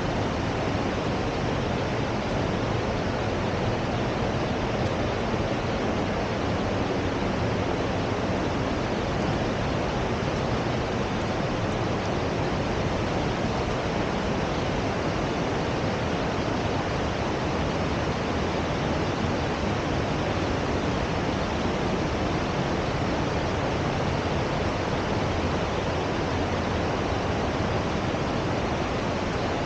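Steady, even rushing noise outdoors, with no gusts, breaks or distinct events: white water or wind.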